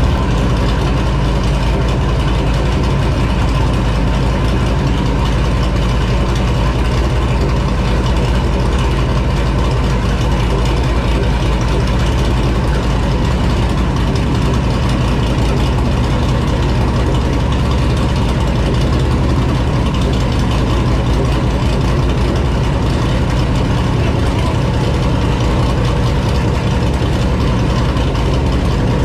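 Stroked 7.0-litre (427 cubic inch) iron-block LS V8 running on an engine dyno, holding a steady speed with no revving.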